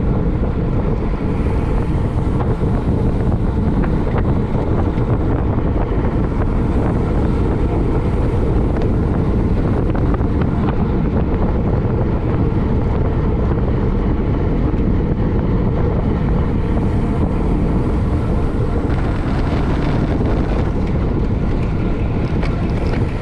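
Steady wind noise buffeting the microphone: the rush of air past a camera carried on a bicycle during a criterium race.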